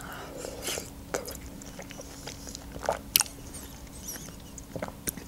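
Close-up mouth sounds of a woman biting and chewing a juicy grapefruit segment: soft wet smacks and scattered small clicks.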